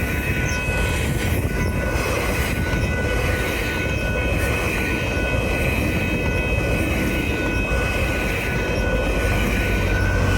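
GO Transit commuter train passing through a level crossing: a steady, continuous rumble of the locomotive and coaches, with steady high tones held over it.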